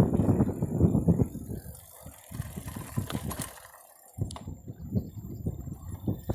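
Bicycle rattling and knocking over a rough, bumpy dirt road, a dense run of rapid knocks. It eases off briefly twice.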